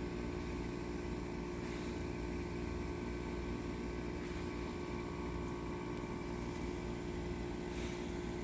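Steady hum of an idling car, heard from inside the cabin, with an even low rumble and a constant drone.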